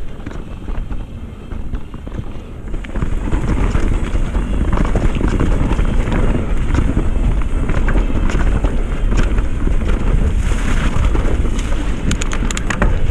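Wind rushing over the rider's microphone while descending a downhill mountain-bike trail, growing loud about three seconds in as speed builds. A run of sharp clatters near the end.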